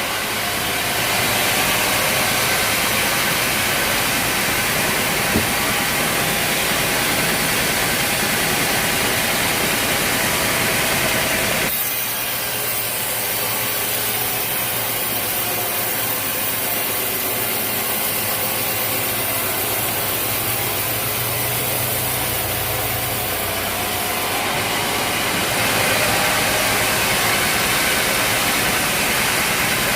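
Sawmill machinery running steadily, engine and saw cutting through a log. The sound changes abruptly about twelve seconds in and again near twenty-five seconds.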